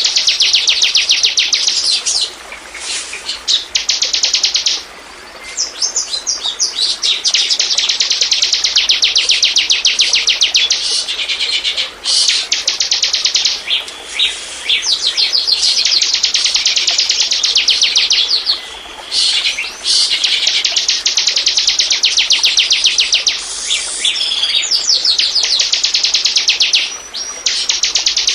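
Bar-winged prinia (ciblek) singing a rapid, high-pitched trill of quickly repeated notes, almost unbroken apart from a few short pauses. This is the kind of ciblek song played as a lure ('pancingan').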